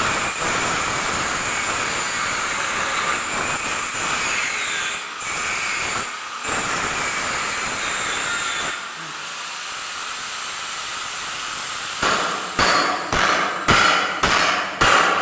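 A steady mechanical rushing noise, then near the end a run of about six hammer blows, roughly two a second.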